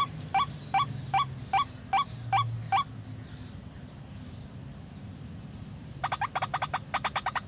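White-breasted waterhen calls: a regular series of rising, hooked 'kwak' notes, about two or three a second, that stops about three seconds in; near the end a much faster run of calls starts, about eight a second.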